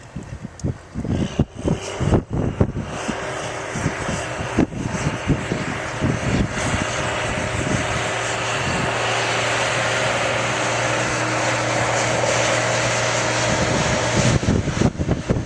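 A motor engine running steadily, building louder over several seconds and holding, then dropping away near the end, with irregular thumps against the microphone in the first few seconds.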